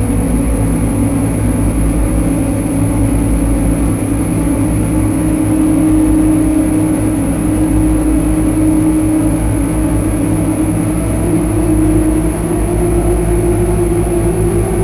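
Dark ambient drone played on a Lyra-8 synthesizer: a dense low hum of held tones, with one tone slowly rising in pitch over the last few seconds.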